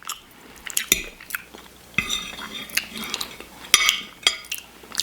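Utensil clinking and scraping against a dish of shepherd's pie, a series of sharp clicks with short scrapes in between, as food is scooped up.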